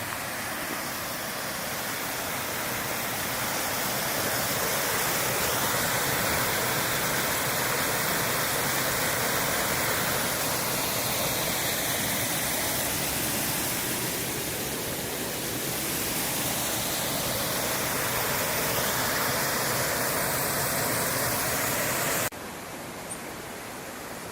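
Waterfall rushing as a steady, loud roar of falling water. Near the end it drops abruptly to a quieter rush.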